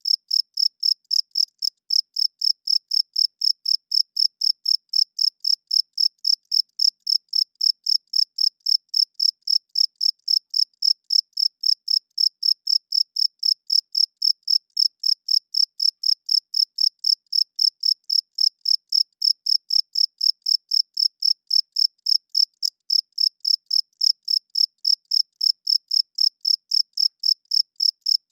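Crickets chirping: a high-pitched, steady, even train of chirps, several a second. It is the song the male cricket makes by rubbing its wings together.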